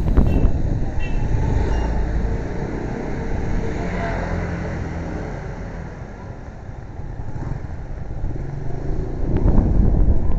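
Motor vehicle engine and road noise while riding through traffic, a steady rumble that eases off in the middle and grows louder again near the end.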